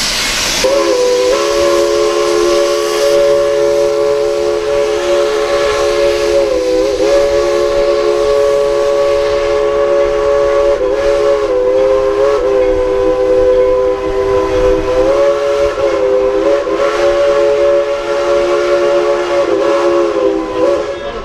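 Steam locomotive's chime whistle blown in one long sustained chord, after a brief burst of escaping steam hiss at the start. The chord dips and bends several times as the engineer works the whistle cord.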